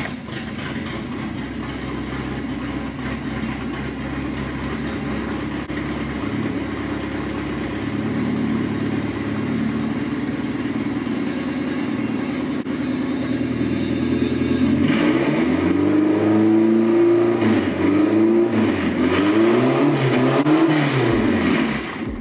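Ford Escort Mk2 RS2000's engine running just after being started: it idles steadily for about fifteen seconds, then is revved in a series of quick blips, and stops suddenly at the end.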